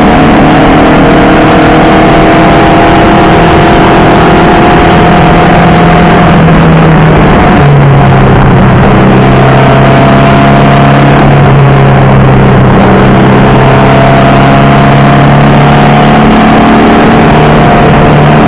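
Porsche Type 4 air-cooled flat-four with Weber carburettors in a VW Beetle 1303, running hard under load. Its pitch drops abruptly about seven and a half seconds in, as at a gear change, then climbs slowly before stepping up again near the end.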